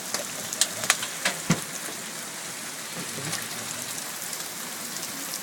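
Steady rain falling, with a few sharp clicks of hailstones striking, five of them close together in the first second and a half.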